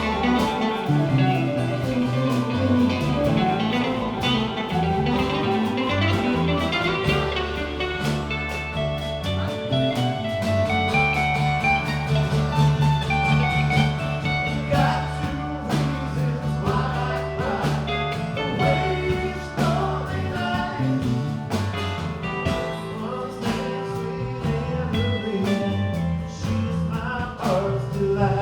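A live band playing: guitar lines over bass and drums.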